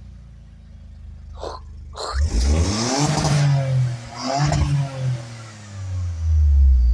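Toyota GR Corolla's turbocharged three-cylinder engine, breathing through a catted aftermarket downpipe and mid pipe with the stock rear muffler, idling and then revved twice: a longer rev about two seconds in that climbs and falls back, and a shorter blip about four and a half seconds in. A loud deep rumble comes near the end.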